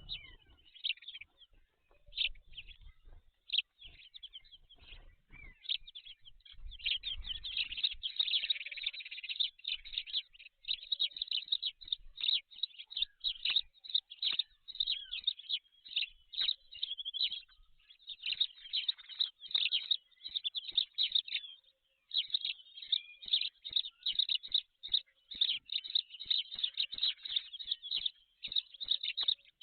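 Birds chirping in a rapid, near-continuous chatter of short high calls, with a brief lull about 22 seconds in.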